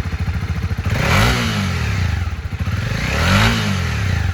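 Honda CB300R's single-cylinder engine idling, blipped twice with the throttle: the note rises and falls back about a second in and again about three and a half seconds in.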